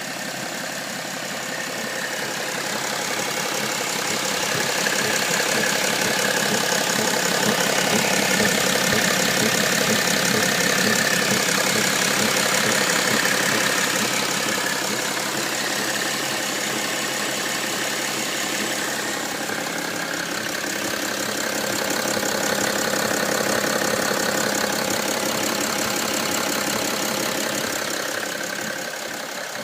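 BMW E90 330d's three-litre straight-six turbodiesel idling with a thumping noise, the only fault on a car that otherwise runs fine. The sound swells louder for a stretch, eases off, then swells again.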